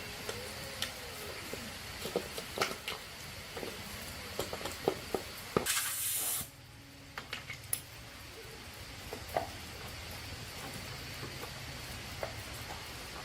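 Scattered light clicks and taps, with one short burst of spray hissing about six seconds in.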